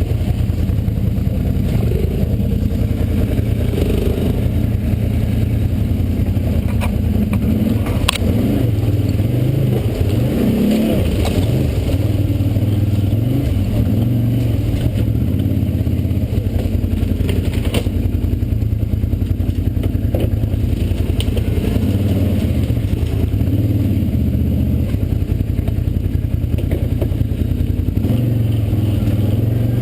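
Four-wheel-drive off-road vehicle's engine running at low speed, swelling and easing as it crawls over rocks. A few sharp knocks and scrapes come from the rock, the clearest about 8 and 18 seconds in.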